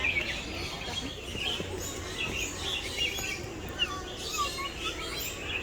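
Many birds chirping and calling at once: a dense, overlapping chorus of short high chirps and quick whistled notes.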